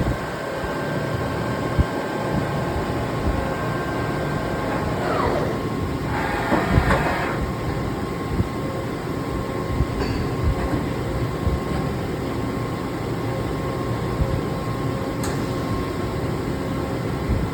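Matsuura MC900H-63-PC2S CNC horizontal machining center running, a steady machine hum made of several constant tones. About five seconds in a whine falls in pitch, followed by a short hiss, and there are a couple of sharp clicks later on.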